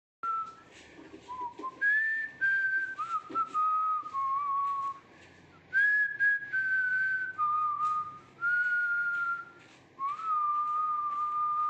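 A person whistling a slow tune: a run of held notes that step up and down, with short breaks between phrases.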